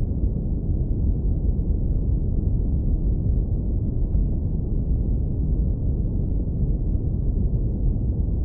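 Steady, deep low-pass filtered brown noise: a warm rumble with nothing above the low bass range, unchanging throughout.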